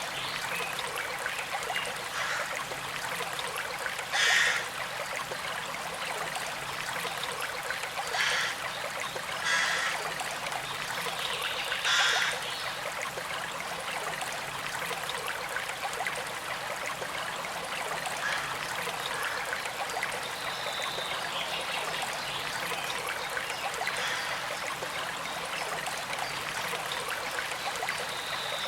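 Small creek trickling and flowing steadily over stones, with four brief louder splashes in the first half.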